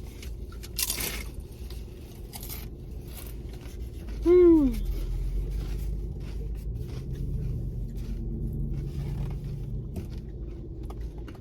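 Eating noises: scattered crunches and clicks of hard-shell tacos being bitten and handled, with paper rustling. About four seconds in comes one short vocal sound falling in pitch, and a low hum runs under the second half.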